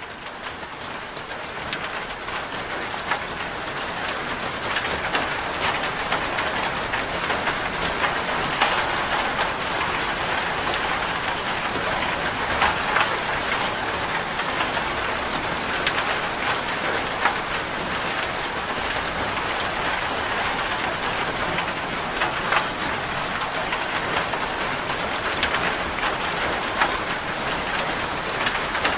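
Steady rain falling, with scattered sharper drop impacts, swelling up over the first couple of seconds and then holding level.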